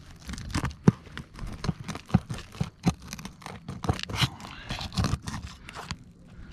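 Irregular scraping, crunching and clicking of a tool working under a roof shingle to pull out a nail, the strokes thinning out near the end.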